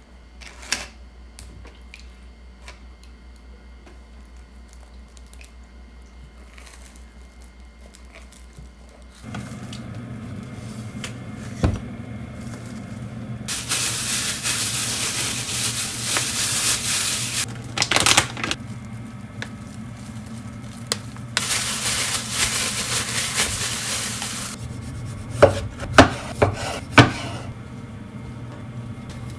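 Kitchen work sounds. A low steady hum begins about a third of the way in, followed by two spells of loud hissing and a few sharp clattering knocks of dishes or utensils near the end.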